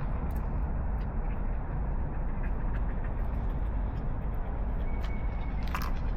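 Outdoor street ambience during a walk: a steady low rumble with a few faint light clicks, and a brief thin high tone about five seconds in.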